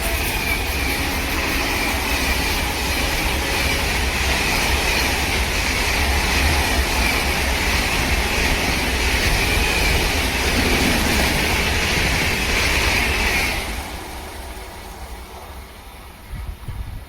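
A train running past on the rails, with a heavy rumble and a steady high-pitched wheel squeal. It drops away sharply about thirteen seconds in and fades as the train moves off.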